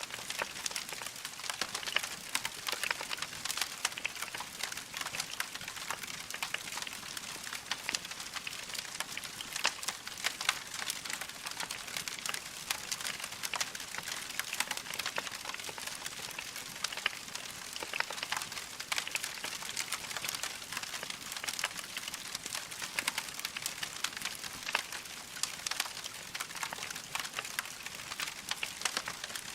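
Wood fire crackling steadily: a dense run of small snaps and pops from burning logs, with no break.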